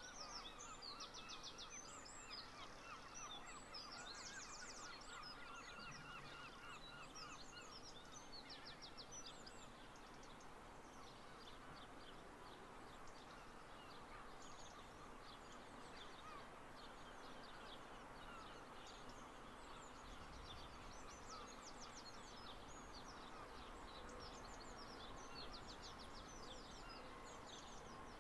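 Several small birds singing, with quick repeated chirps and trills throughout, over faint steady background noise.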